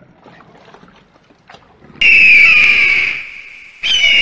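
Bird of prey giving two loud, harsh, high screams, each falling slightly in pitch. The first starts about two seconds in after a faint stretch, and the second begins near the end.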